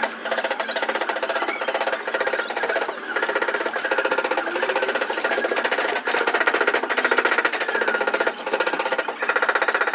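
Rapid mechanical hammering: a steady, fast rattle from a powered tool, with a few short breaks.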